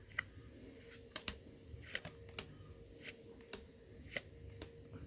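Magic: The Gathering trading cards being flipped through one at a time: a short, sharp click as each card is moved, about two a second, over a faint steady hum.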